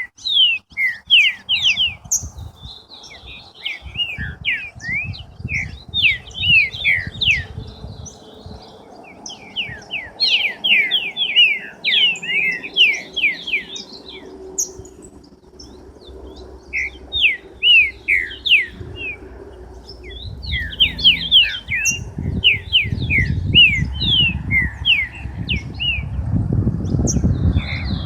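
Songbirds chirping and singing in quick runs of short, falling notes, in bursts with brief lulls. A low rumbling noise builds up under the song in the last several seconds.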